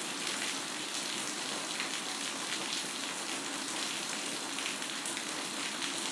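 Thick lehyam paste sizzling steadily as it cooks in a nonstick pan, a constant hiss with faint crackles.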